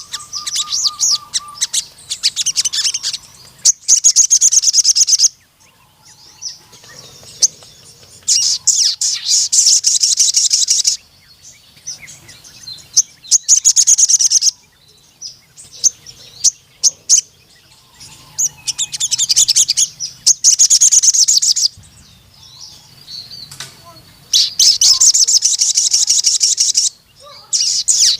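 Sogon (a sunbird) singing in its full 'gacor' manner: repeated bursts of very fast, high, chattering trills lasting a few seconds each, with softer calls in the short pauses between them.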